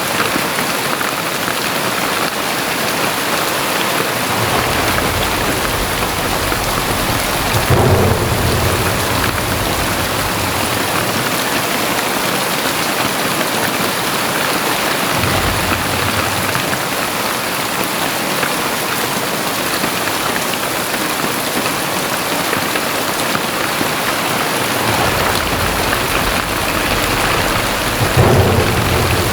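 Very heavy rain falling steadily, with low thunder rumbling in long rolls underneath, loudest about eight seconds in and again near the end.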